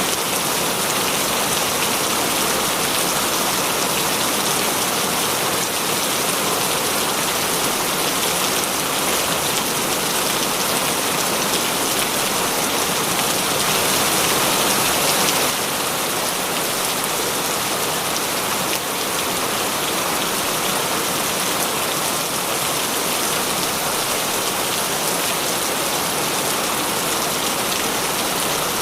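Heavy rain falling steadily, a dense even hiss of drops on surfaces, swelling slightly for a few seconds about halfway through.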